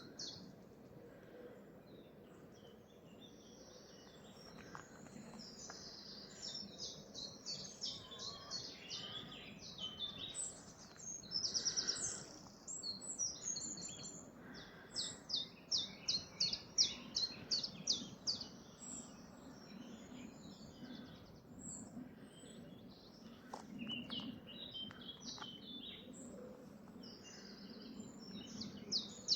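Several songbirds singing over one another in a morning chorus, with runs of quick, evenly repeated high notes and short warbled phrases.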